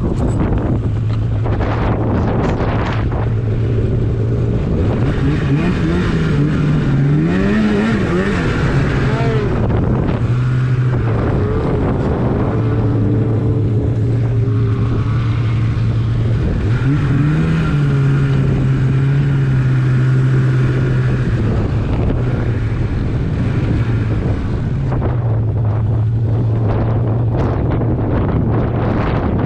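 Polaris RMK snowmobile engine running steadily, revving up and settling back twice, about six seconds in and again about seventeen seconds in. Wind noise on the microphone.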